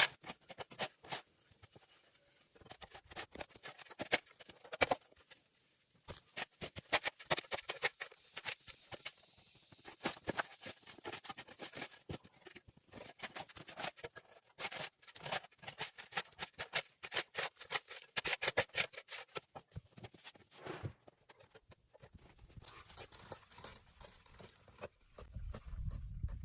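Rapid, irregular clicking and scraping in quick clusters of small hard impacts, with a low rumble starting near the end.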